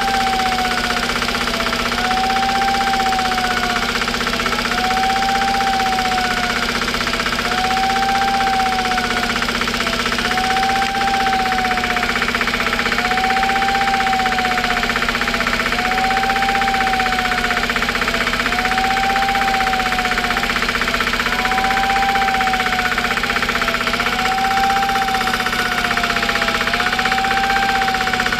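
Emergency vehicle siren wailing, one rise-and-fall about every two seconds, over the steady running of an engine.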